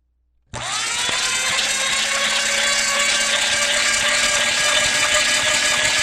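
An electric power tool switched on about half a second in, its motor spinning up within a fraction of a second and then running at a steady high speed with a whine and a dense hiss.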